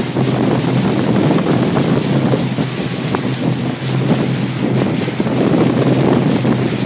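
Tigé wake boat under way: a steady engine drone with heavy wind buffeting the microphone and rushing water from the hull and wake.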